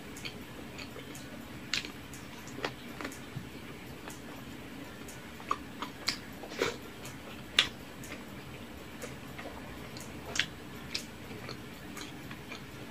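Close-miked eating sounds: irregular wet lip smacks and mouth clicks from chewing rice and saucy pork ribs eaten by hand, with fingers sucked clean of sauce. A low steady hum runs underneath.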